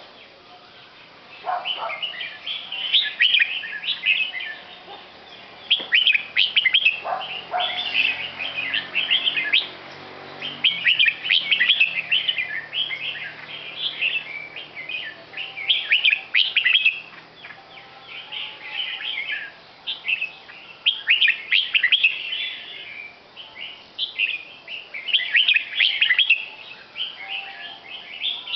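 A bird chirping in quick bursts of sharp, high notes, a new burst every second or two.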